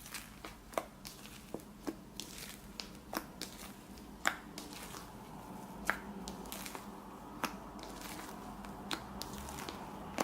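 Glue, shaving gel and borax slime being worked, giving irregular sharp sticky pops and clicks about once a second over a soft squishing, which grows fuller from about halfway through.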